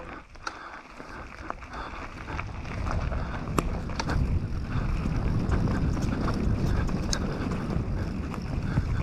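Riding noise from a Canyon Torque mountain bike on a dirt trail: wind buffeting the microphone and tyres running over the ground, swelling over the first few seconds as speed builds, with scattered sharp clicks and rattles from the bike.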